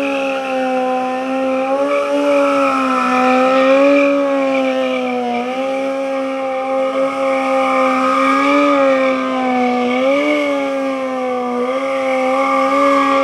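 Motorcycle engine held at high revs for a long stretch, its pitch steady with small wavers.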